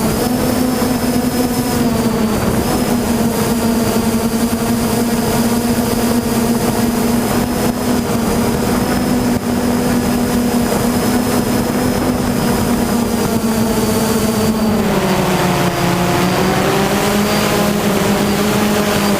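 Hexacopter's six propellers and electric motors whining steadily in flight. The pitch drops for a couple of seconds near the end, then climbs back up.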